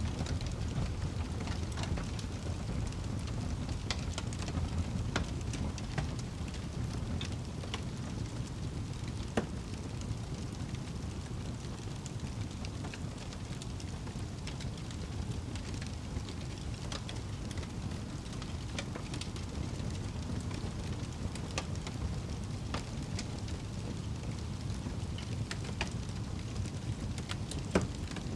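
Wood fire crackling: scattered sharp pops and snaps over a steady low rumble, with one louder pop near the end.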